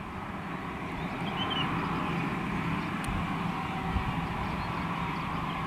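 Airbus A320 jet engines running steadily before takeoff: a low hum under a broad rush. There is one sharp click about three seconds in.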